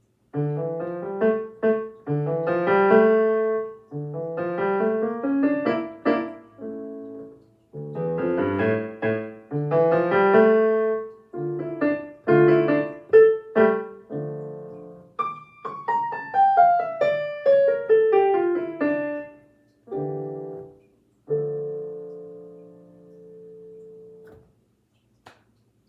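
Piano playing a short elementary-level solo in phrases of chords and melody, with a falling run of notes past the middle. It ends on a held chord that dies away.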